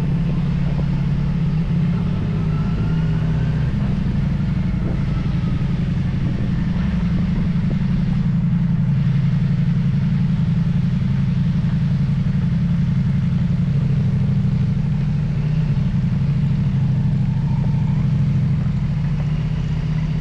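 An engine running steadily with a constant low drone that holds even, without revving up or down.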